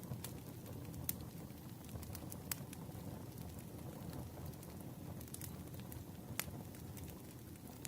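Campfire burning with a steady low rumble and scattered sharp crackles and pops, a few seconds apart.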